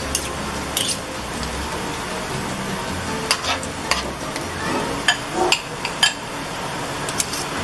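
Mackerel fish balls sizzling in hot oil in a metal wok, with a spoon clinking against the pan several times as more mixture is dropped in.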